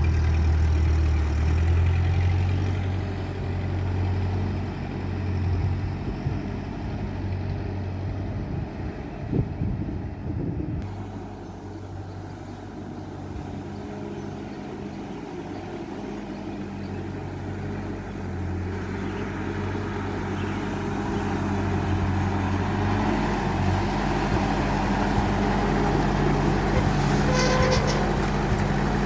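1949 Ford 8N tractor's four-cylinder flathead engine running steadily. It gets quieter about a third of the way through and builds louder again toward the end.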